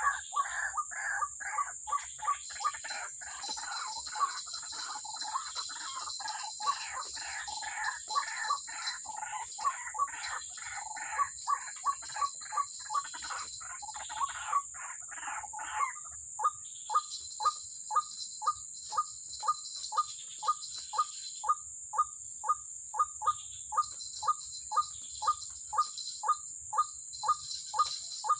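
White-breasted waterhen (ruak-ruak) calling: a dense, overlapping run of harsh repeated calls that about halfway through settles into single short notes, about two a second.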